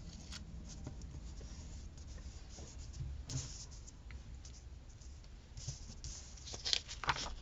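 Paper stickers being handled and rubbed down on a planner page: faint rustling with short scratchy scrapes, a few about three seconds in and a denser cluster near the end.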